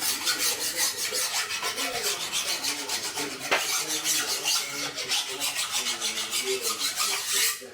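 Quick, rhythmic back-and-forth scraping on a metal engine part, cleaning off old gasket material, several strokes a second, stopping abruptly near the end.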